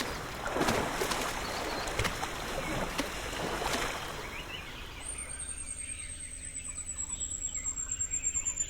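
Rainforest sounds: rustling and crackling of vegetation for the first few seconds. Then, from about halfway, a single high, thin pulsing call from an animal that slowly falls in pitch and grows louder.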